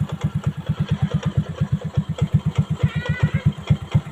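Motorcycle engine idling with a fast, even beat.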